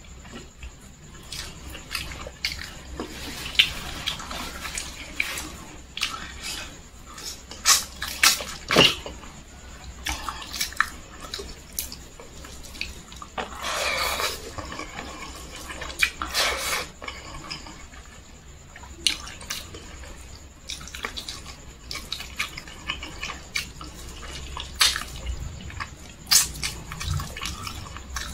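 Wet mouth sounds of a person eating fried chicken and rice by hand: chewing and lip smacks in a run of short clicks, with a longer noisy stretch of chewing about fourteen seconds in.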